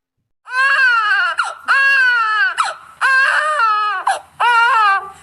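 A baby crying in about four long wailing cries, each falling in pitch.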